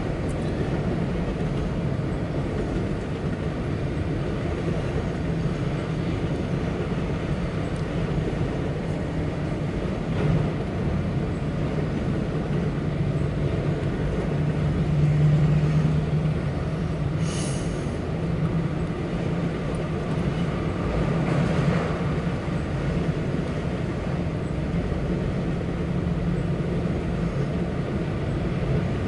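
Empty autorack freight cars rolling past steadily: a continuous low rumble of steel wheels on rail, with an occasional brief squeak or clank. It is heard from inside a car through the windshield.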